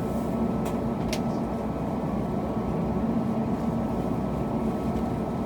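Steady rumble and hum of an Airbus A321neo's cabin on the ground, with a faint steady whine running through it. Two light clicks come about a second in.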